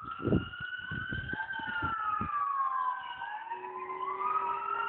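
Fire truck siren wailing, with several tones gliding slowly up and down in pitch. There are low thumps in the first couple of seconds.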